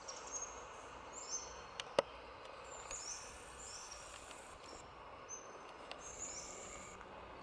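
Birds calling outdoors: short, high-pitched chirps repeated again and again over a steady background hiss, with one sharp click about two seconds in.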